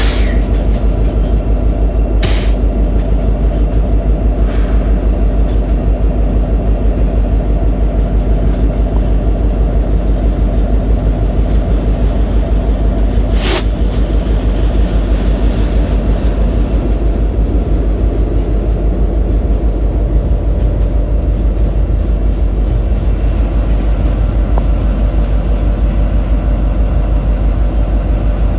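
Union Pacific freight train rolling past, a loud steady rumble of cars on the rails, with a few brief sharp squeaks or clicks.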